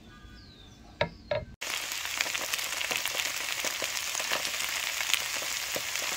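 Stir-fry of ground chicken and eggplant sizzling in an electric skillet, a steady crackling fry that starts abruptly about a second and a half in. Before that there is quieter sound with a couple of light clicks.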